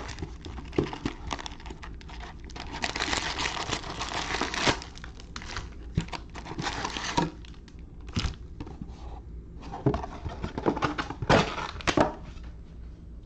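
Plastic wrapping crinkling and tearing in bouts as a sealed box of trading-card packs is opened, with sharp clicks and knocks of handling in between.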